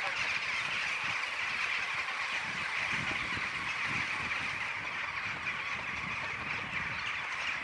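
A huge flock of birds calling all at once, a dense, steady chatter as they settle into a tree.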